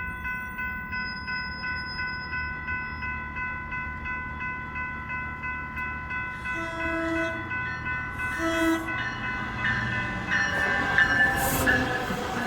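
A warning bell rings steadily, about two strikes a second, as a Silverliner V electric multiple-unit commuter train arrives. The train gives two short horn blasts just past halfway. Near the end its rolling noise builds as it pulls in, with a brief high wheel squeal.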